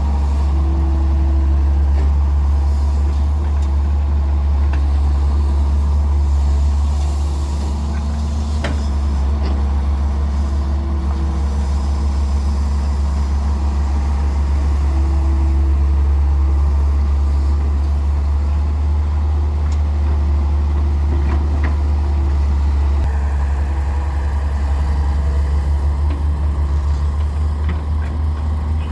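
Heavy diesel engine running steadily with a deep, loud hum, broken by a few brief sharp knocks.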